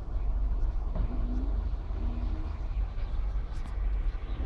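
Wind buffeting the microphone outdoors as a storm approaches: a steady low rumble, with faint voices in the background.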